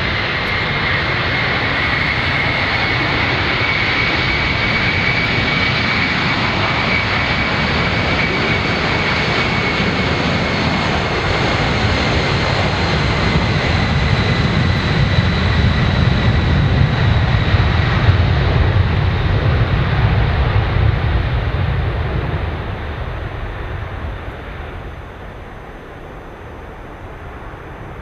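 Boeing 747 freighter's jet engines at takeoff power: a steady high whine over a deep rumble that swells to its loudest a little past the middle, then fades over the last few seconds.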